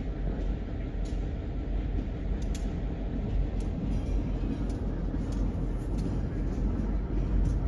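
Train running on the rails: a steady low rumble with faint scattered clicks.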